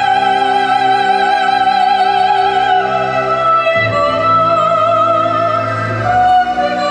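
A classically trained voice singing a slow song, holding long notes with wide vibrato over instrumental accompaniment, moving to new notes about three, four and six seconds in.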